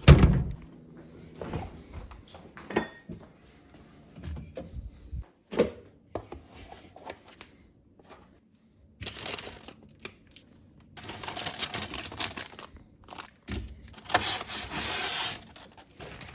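A heavy thump, then scattered clicks and knocks and several longer bursts of rustling and crinkling: things being handled in a small room.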